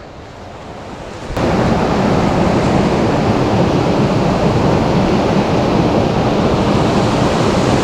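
Loud, steady rush of fast-flowing jungle river water, starting abruptly about a second and a half in after a quieter stretch.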